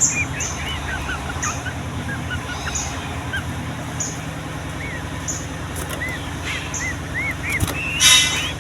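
Yellow-vented bulbuls (trucukan) calling: short, arched whistled notes, with a high chirp repeating about once a second. Near the end comes a loud burst of rapid chattering. A steady low hum runs underneath.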